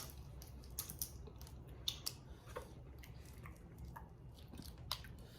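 Crawfish being peeled and eaten: scattered small cracks and clicks of shells breaking, with soft mouth sounds of chewing.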